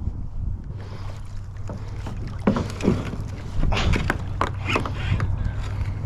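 Kayak paddle strokes splashing in the river water, several in quick succession through the middle, over wind rumbling on the microphone and a steady low hum.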